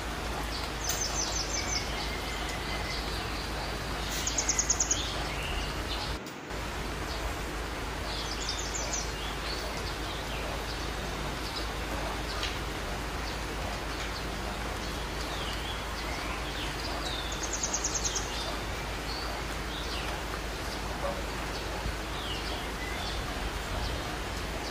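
Birds chirping, with short rapid high-pitched trills every few seconds and fainter chirps in between, over a steady background hiss.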